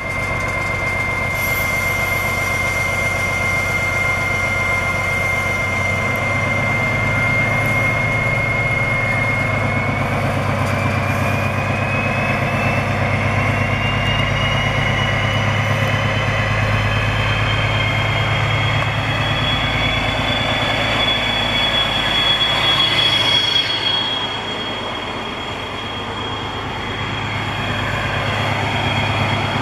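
DB Class 218 diesel locomotive pulling away under power, with a loud turbocharger whistle over the engine's deep drone. About a third of the way in, the whistle starts rising in pitch as the turbo spools up, then holds high. Near the end the sound eases briefly before building again.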